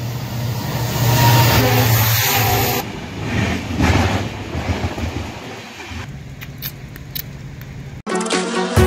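A passenger train passing close by on the next track, heard through an open carriage window. A loud rush of wheel and coach noise with a low hum comes as the locomotive goes by, then uneven rushing and a few rail clicks as the coaches pass, growing quieter. It cuts off abruptly near the end, where music begins.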